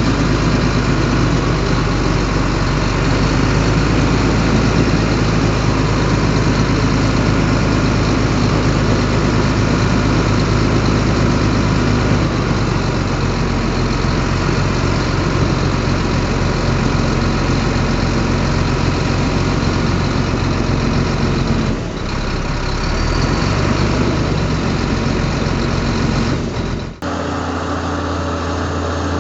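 Heavy earthmoving machinery's diesel engine running steadily under work. Near the end the sound breaks off abruptly and gives way to a lower, steadier engine drone.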